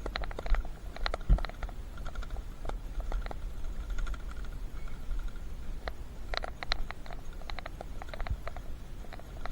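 Bicycle rattling over a rough track: scattered sharp clicks and ticks over a steady low rumble, with clusters of clicks near the start and again about six seconds in.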